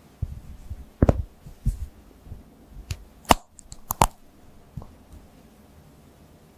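A string of sharp, irregular clicks and snaps, about seven in five seconds, the loudest near the middle, with a quiet background between them.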